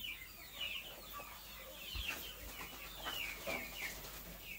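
Birds cheeping continually, a steady run of short high falling notes several times a second.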